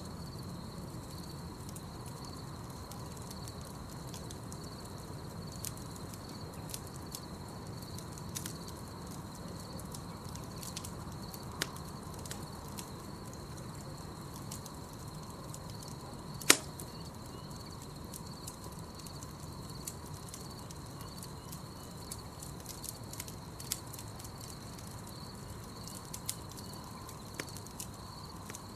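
Campfire crackling: a steady low rumble of burning wood with scattered sharp pops and snaps, the loudest about sixteen seconds in. A steady, high insect chirring runs behind it.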